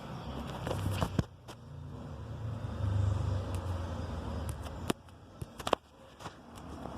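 Car running with a low rumble that swells and eases, and a few sharp, irregular clicks over it.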